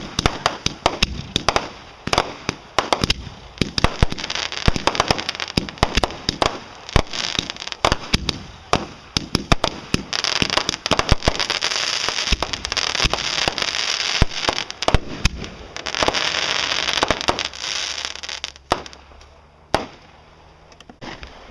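Fireworks going off as a rapid, dense run of sharp pops and cracks, swelling twice into continuous crackling, then thinning out and dying away near the end.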